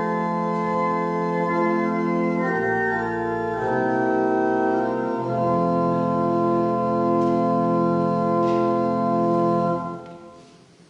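Organ music: slow, sustained chords with deep pedal bass notes. It ends on a held final chord that is released about ten seconds in, leaving the room's echo to die away.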